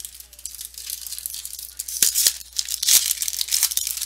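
Trading-card pack wrapper being torn open and crinkled, a dense crackling that is loudest from about halfway through.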